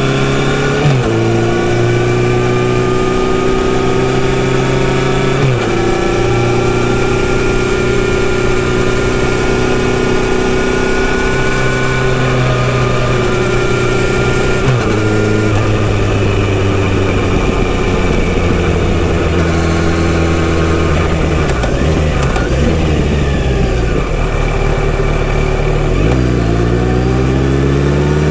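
Kawasaki Z900RS inline-four engine with a full-system exhaust, heard while riding. The engine pitch climbs under throttle and drops sharply a few times as gears change, runs lower and slowly falls in the middle stretch, then rises again under acceleration near the end.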